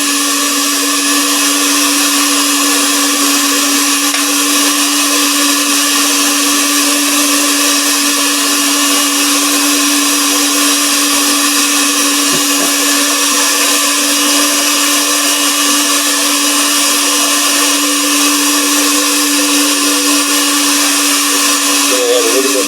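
Electric mixer running steadily at a constant speed, whipping buttercream icing as yellow colouring is blended in.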